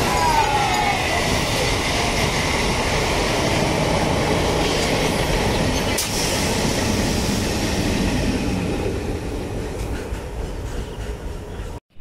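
MEMU local electric multiple unit train running past close by: a steady loud rumble and rattle of coaches and wheels on the rails, with a brief high wheel squeal near the start and a single sharp click about halfway. The noise fades over the last few seconds as the train draws away, then cuts off abruptly.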